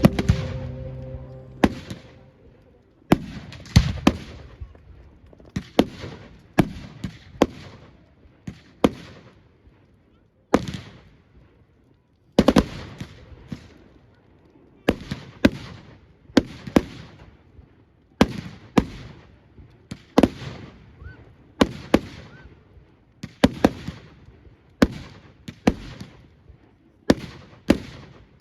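Fireworks display: a string of sharp bangs from bursting aerial shells, each trailing off in a rumbling echo, coming every one to two seconds with some in quick pairs.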